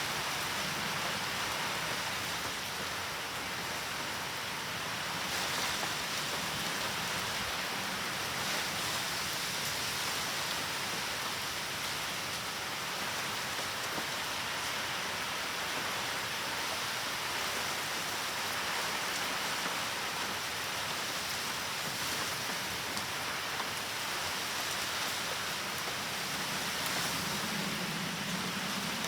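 Steady heavy typhoon rain falling and pattering on surfaces, an even hiss throughout. A low hum rises briefly near the end.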